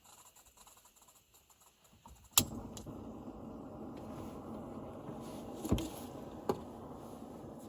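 A sharp click, then a steady running hum like a small appliance switching on, with two more clicks or knocks over it a few seconds later.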